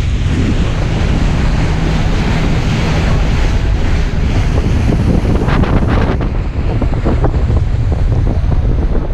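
Loud wind buffeting the microphone on a boat under way, over the rush of sea water, with a faint low hum in the first half.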